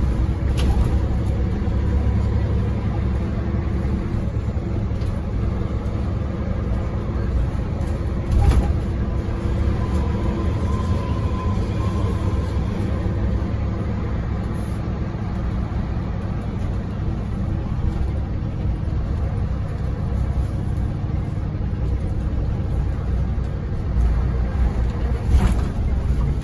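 Scania OmniLink I articulated bus running on the road, heard from on board: a steady low engine and road rumble. Two sharp knocks or rattles stand out, about eight seconds in and near the end.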